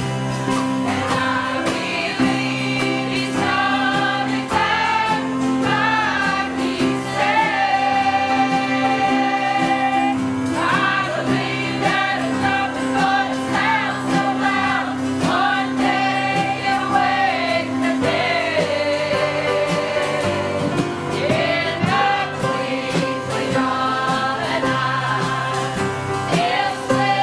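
Congregational praise music: a group of voices singing a gospel song over sustained instrumental accompaniment.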